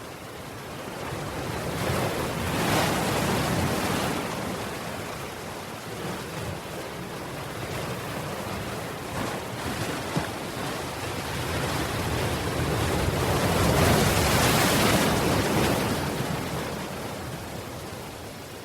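Ocean waves breaking and washing in, twice: a swell of surf noise a couple of seconds in and a louder one near the end, with a steady wash between them.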